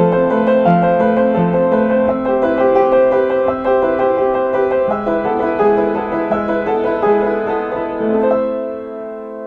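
Closing piano music playing a melody over steady chords, ending on a held chord near the end.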